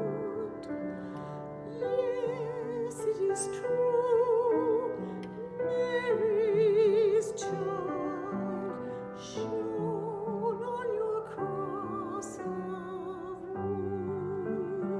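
A classically trained soprano sings a slow carol with wide vibrato, accompanied by piano.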